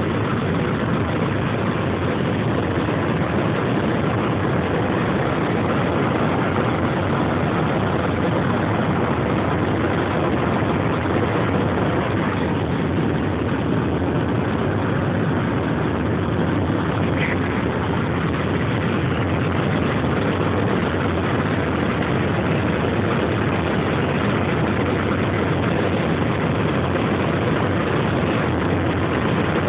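Steady jet-engine and airflow noise inside an airliner's passenger cabin during the climb after takeoff.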